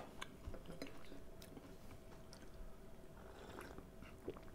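Faint chewing and small mouth clicks of a man eating a tea-soaked toast biscuit.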